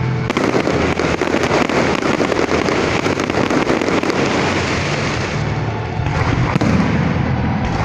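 Fireworks going off: a dense, rapid crackling of many small bangs that starts a fraction of a second in and thins out a little in the last couple of seconds.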